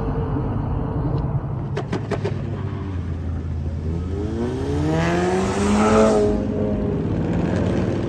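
Cars driving past with a steady low engine rumble. About four seconds in, one engine revs up as it accelerates by, rising in pitch and loudest a couple of seconds later before easing off.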